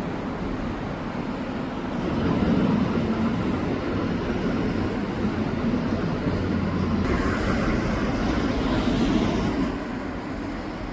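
Road traffic noise: a steady rumble of vehicles that grows louder about two seconds in and falls away shortly before the end.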